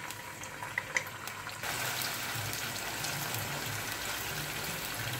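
Soft tofu cubes frying in hot cooking oil: a steady sizzle with small crackles, which grows louder about a second and a half in, after a couple of light clicks.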